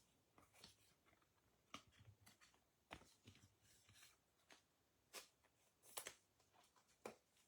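Faint, scattered soft taps and brushing sounds of trading cards being handled and sorted, with the sharpest clicks about three and six seconds in.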